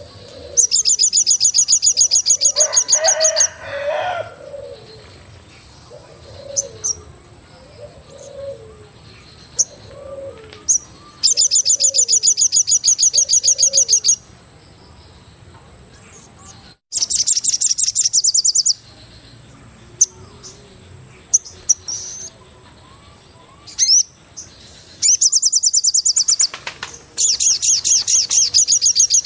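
Forest birdsong: a loud, fast, high trill comes in bursts of two to three seconds, five times. Between the bursts a dove gives short, soft, falling coos about once a second.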